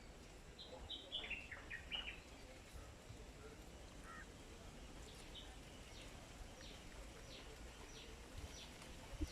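Small birds chirping: a quick run of short, falling chirps about a second in, then scattered single high chirps.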